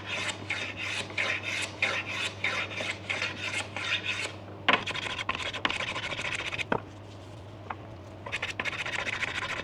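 Hand plane taking fine shavings off an ebony splice on a snooker cue, in a quick run of short, even strokes that stop about halfway through and start again near the end.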